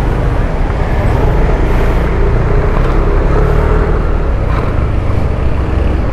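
Yamaha Aerox 155 scooter's single-cylinder engine running while riding, under heavy wind rumble on the microphone; its pitch drifts slightly with speed.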